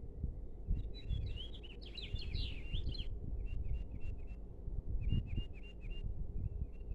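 Small birds chirping in short repeated notes, with a quick, busier burst of higher chirps from about one to three seconds in, over a steady low rumble.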